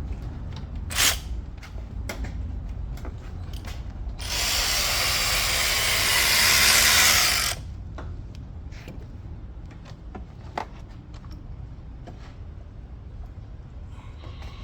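Cordless power tool running in one burst of about three seconds, a few seconds in, with scattered clicks and clinks of tools before and after.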